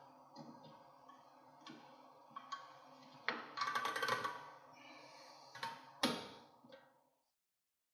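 Metal clicks and clinks of pliers and a drum brake shoe's hold-down spring and retainer washer being pressed down and turned into place. A louder cluster of clinks comes about three to four seconds in, and a single sharp click about six seconds in.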